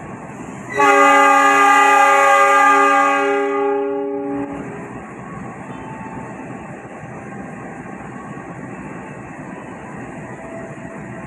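Locomotive horn of the Taksaka passenger train sounding one long, loud blast of several notes at once, fading out after about four seconds, over the steady rumble of the train.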